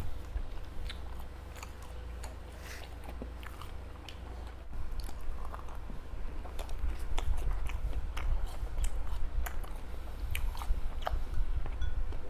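Close-miked chewing of soft, chewy homemade fish balls, with many small wet mouth clicks. It gets louder about halfway through.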